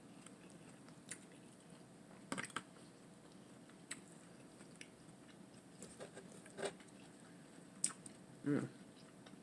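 Close-miked eating of a romaine lettuce wrap with a hamburger patty: soft bites, crunches and chewing, a short sound every second or two.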